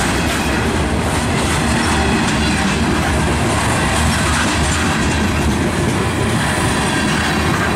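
Covered hopper cars of a freight train rolling past close by: a steady rumble and clatter of steel wheels on the rails.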